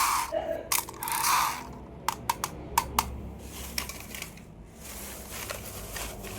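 Toy packaging being handled and torn open: two rustling, tearing bursts near the start, then a quick run of sharp plastic clicks and taps, settling into quieter handling.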